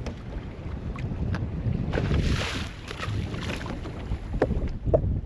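Wind buffeting the microphone aboard an offshore fishing boat over a steady low rumble, with a hissing rush about two seconds in and a few sharp knocks near the end.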